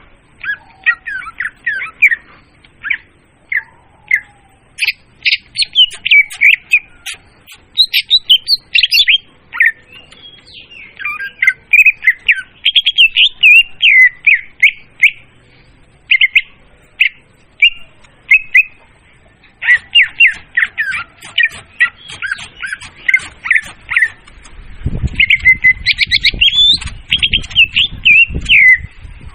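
Leafbird (murai daun) song played as a bird-trapping lure: loud, fast phrases of varied chirps and whistles in bursts separated by short pauses. A low rumble runs under the song in the last few seconds.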